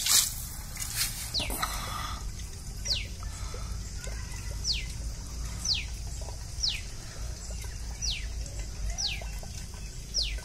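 A bird calling eight times, each call a short high whistle that drops sharply in pitch, about once a second. A few water splashes come in the first two seconds.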